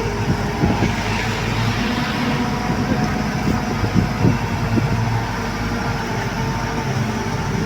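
Heavy truck engine running steadily, with short knocks and clanks scattered through the first few seconds.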